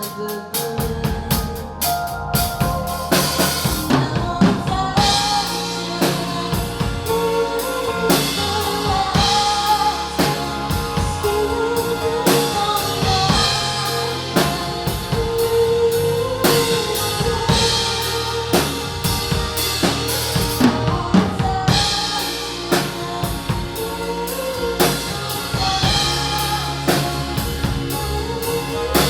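Live band playing instrumental music: a drum kit keeps a steady beat under a sustained, gliding melodic line.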